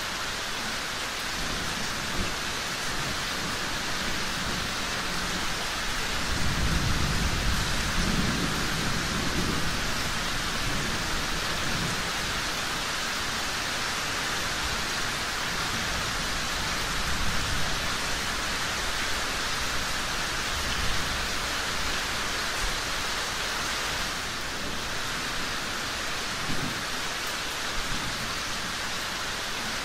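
Steady, heavy rain falling, with a low roll of thunder swelling from about six to ten seconds in and a few sharp pops of a crackling wood fire.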